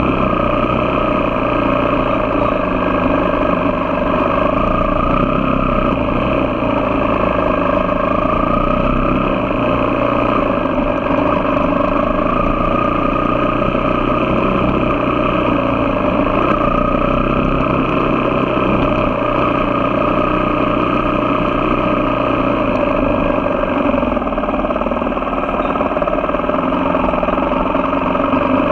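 Engine of a moving vehicle running steadily, its pitch rising and easing gently every few seconds.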